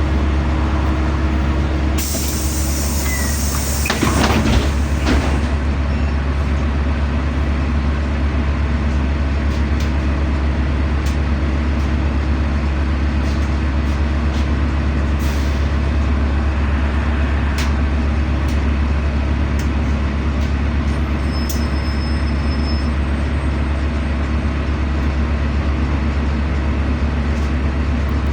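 LiAZ-5292 city bus heard from inside, its engine and running gear giving a steady drone with a strong low hum. About two seconds in there is a brief burst of hiss, followed by a few clattering knocks around four to five seconds in.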